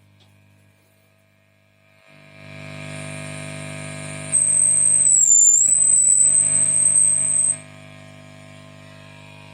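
Guitar tube amplifier modelled on a Mesa Rectifier giving a low mains hum with hiss that swells about two seconds in, then a loud high-pitched whistle for about three seconds, dipping briefly in pitch midway, before it drops back to a steady hum. The whistle and hum are the amp's self-oscillation and hum fault.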